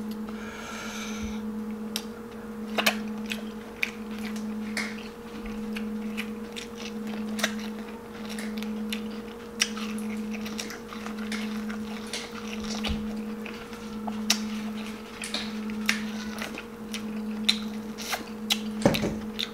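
Close-up sounds of eating Dungeness crab: biting and chewing, with scattered sharp cracks and clicks as the shell is broken between the teeth. Under them runs a steady low hum that swells and fades about once a second.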